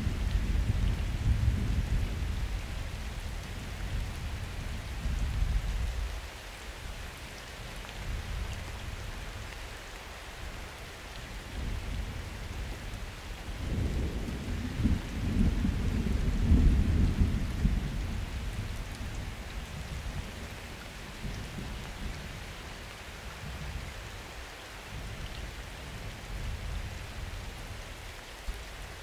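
Steady summer rain with thunder rumbling twice: one roll fading out over the first six seconds, and another building about fourteen seconds in, peaking a few seconds later and dying away.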